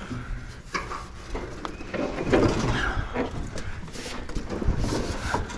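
Irregular knocks, clanks and scraping of metal as a heavy piece of scrap equipment is shoved over and forward onto a trailer.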